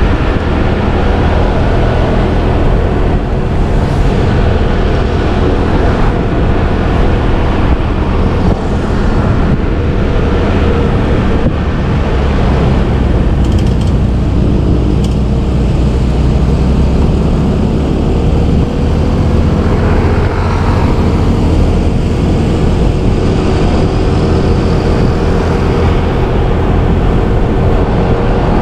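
Motorbike engine running steadily while riding in city traffic, mixed with the noise of other vehicles around it.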